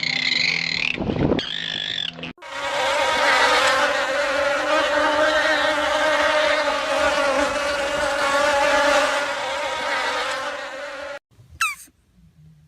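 Insects buzzing, a steady, dense drone that starts abruptly about two seconds in and cuts off near the end. It is preceded by a brief warbling tone and followed by a quick high squeak sliding downward.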